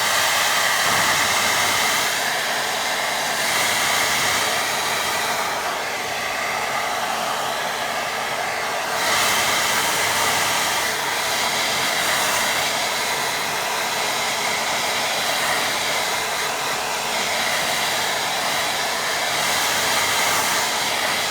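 Hair dryer blowing steadily to dry a wet watercolour painting. It switches on sharply and cuts off about twenty seconds later.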